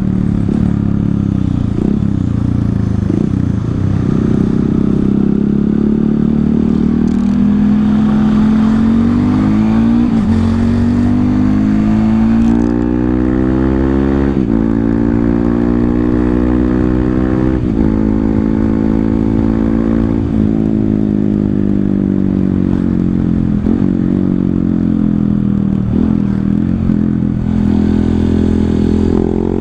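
Honda CRF150L single-cylinder four-stroke engine running through a Tridente F19 full-system exhaust with its honeycomb insert ground out, on a ride. The engine pitch climbs and drops back at each gear change several times, then holds steadier with a few brief dips near the end.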